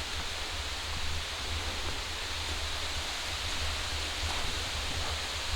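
Steady outdoor rushing noise with wind rumbling on the microphone.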